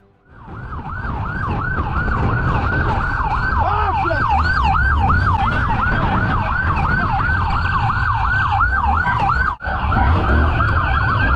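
Police car siren on yelp, rapidly rising and falling about three times a second, over the low rumble of the vehicle moving. It breaks off for a moment near the end, then carries on.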